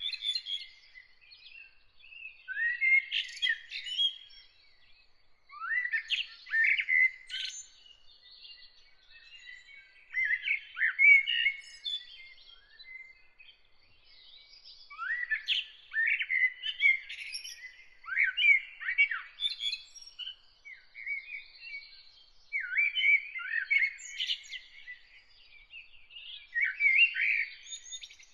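Songbirds singing: warbled, twittering phrases, each a second or two long, repeated with short pauses between them.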